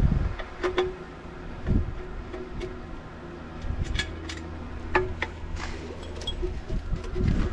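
Scattered sharp metal clicks and clinks from work on the pool pump's fittings, over a low steady hum.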